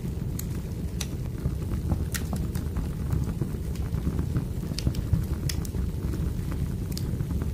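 Crackling wood fire: irregular sharp pops and snaps over a steady low rumble of burning logs.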